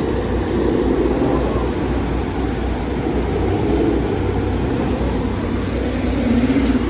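Steady low rumble of a car being driven, with engine and road noise heard from inside the cabin.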